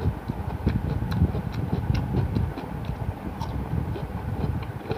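Close-miked chewing with wet mouth clicks and smacks, irregular and continuous.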